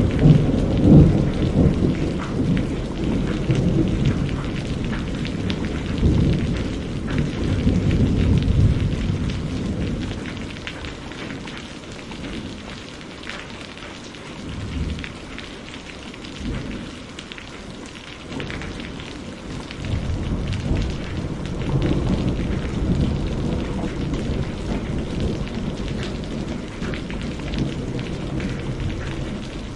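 Steady heavy rain with rolling thunder. The thunder rumbles loudest in the first ten seconds, dies down in the middle, and a second long rumble builds about twenty seconds in.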